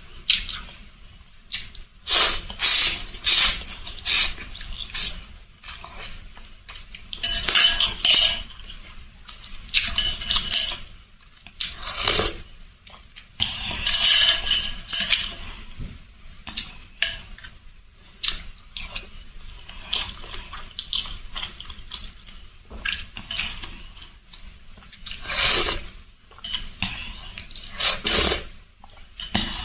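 Close-up eating sounds from a bowl of spicy rice vermicelli soup: a spoon and fork clinking against the bowl, among irregular wet bursts of slurping and chewing.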